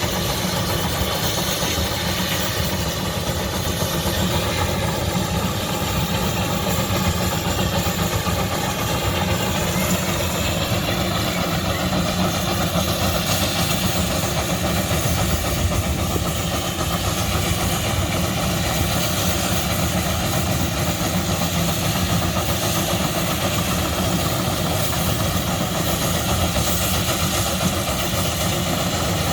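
Old engine running steadily at idle with an even, rapid beat.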